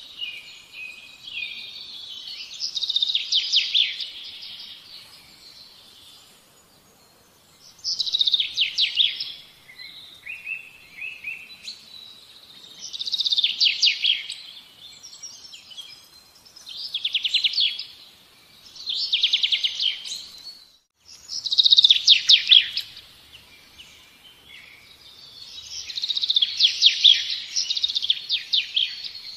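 A songbird singing: phrases of fast trills and chirps, each a second or two long, repeating every few seconds.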